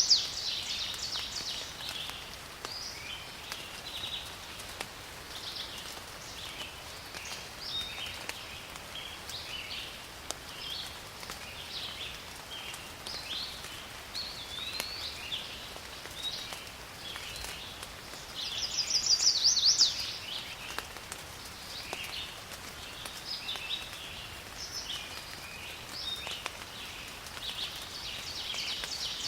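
Rainforest ambience: a steady hiss of rain under many birds chirping and calling. About two-thirds of the way through, a rapid trill grows louder over about a second and a half and stops abruptly; another starts near the end.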